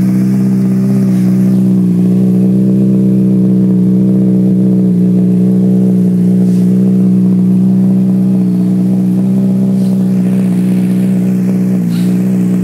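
2007 Honda CBR600RR's inline-four engine idling steadily through a Two Brothers aftermarket exhaust, with no revving.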